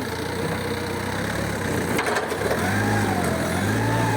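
A vehicle engine running, with a whine whose pitch rises and falls unevenly and grows stronger in the second half, and a short click about halfway through.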